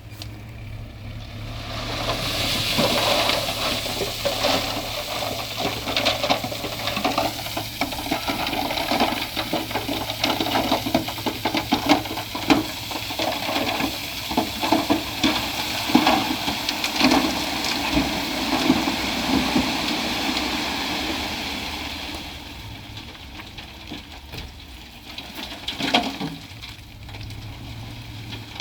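Heavy diesel machinery running with a steady low hum while loose rock and dirt rush and clatter for about twenty seconds, building up about two seconds in and dying away near the end.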